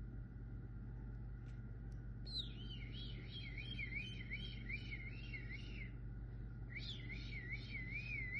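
Young cockatiel whistling in two warbling phrases, the first starting about two seconds in and the second about seven seconds in, each a quick run of notes that wobble up and down in pitch, over a steady low hum.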